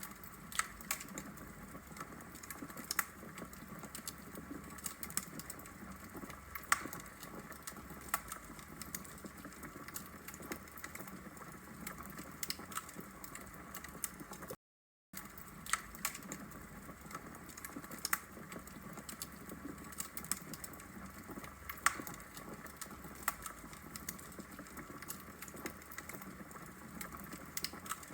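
Wood logs burning in a brick fireplace, crackling with frequent sharp, irregular pops over a soft steady hiss. The sound cuts out for about half a second midway through.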